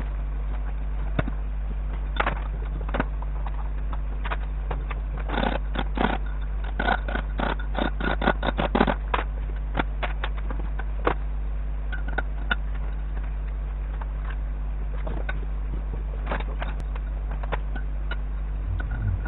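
Hand tools and metal parts clicking and knocking in irregular bursts, busiest in the middle, over a steady low electrical hum.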